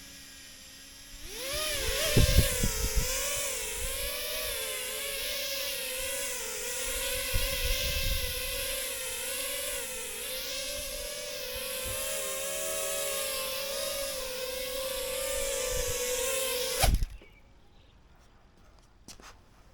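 Small 3D-printed cinewhoop quadcopter flying: its little Happymodel brushless motors and Gemfan props on a 2S battery spin up about a second in, then hold a steady high whine that wavers up and down in pitch with the throttle. A few knocks come early on, and near the end a brief louder burst and a knock come just before the motors cut off suddenly.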